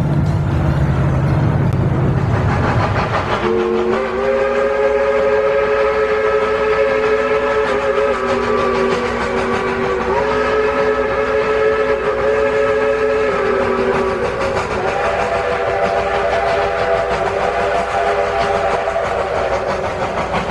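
Locomotive whistle sounding a long multi-note chord, with a short break about ten seconds in and a changed chord from about fifteen seconds on. A low engine rumble comes before it in the first three seconds.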